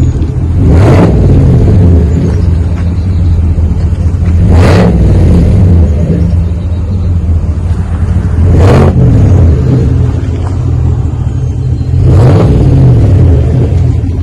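2021 Chevy Silverado's 6.2-litre V8 idling through a Flowmaster Super 40 muffler with the rear resonators removed, revved four times a few seconds apart, each rev rising and falling back to idle. It has an old-school Flowmaster rumble.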